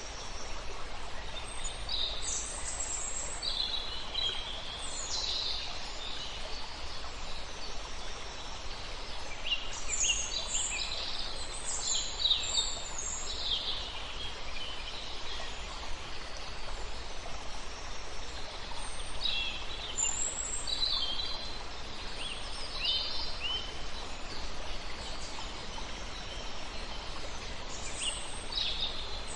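Several songbirds chirping and trilling in scattered bursts over the steady rush of a flowing river.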